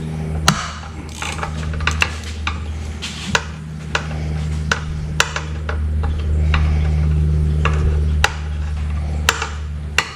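Irregular sharp metallic clicks and clinks as a 7/16 wrench works the shift-linkage bolt loose on an outboard motor's lower unit. A steady low hum runs underneath.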